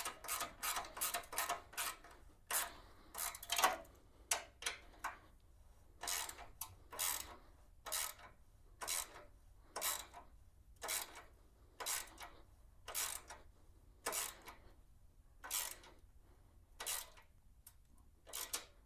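Ratchet wrench clicking in short back-and-forth strokes as a bolt is driven in, quick strokes in the first couple of seconds, then about one to two a second.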